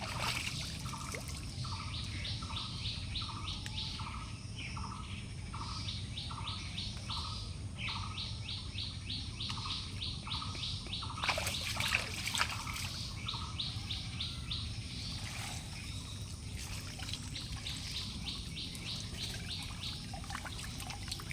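Birds calling in steady runs of short repeated notes, a few a second, over low outdoor background noise, with a few brief sharp noises about eleven to twelve seconds in.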